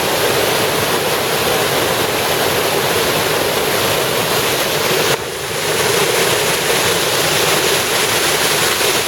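Waterfall rushing steadily into a pool, with a short dip in level about five seconds in.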